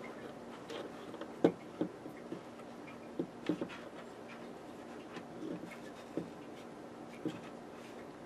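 Scattered small clicks and taps of hands handling small wires, tubing and tools at a workbench, about a dozen spread irregularly through the stretch, over a faint steady hum.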